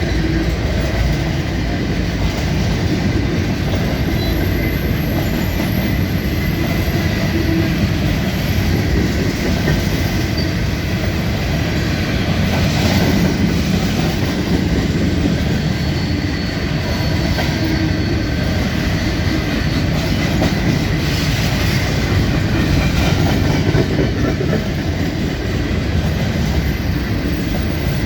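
Freight cars of a long mixed freight train rolling steadily past: continuous rumble of steel wheels on rail, with faint, thin wheel squeal coming and going.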